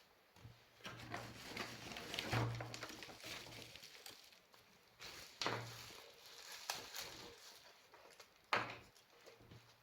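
Handling noise of work on a bench: parts and tools scraping, rustling and clattering, with several sharp knocks, the loudest one near the end, and a low hum that comes and goes.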